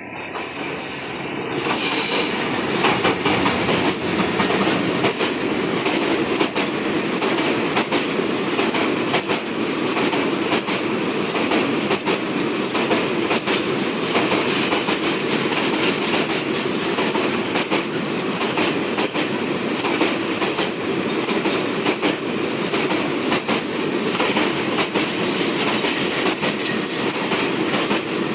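Freight train of tank wagons rolling past close by, steady and loud from about two seconds in. The wheels clatter over the rail joints, with a short high squeal repeating about once or twice a second.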